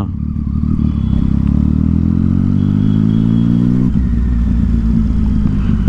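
Triumph Street Triple 675's inline three-cylinder engine through a loud Yoshimura exhaust, accelerating with a rising pitch for about four seconds, then a gear change and a steadier note.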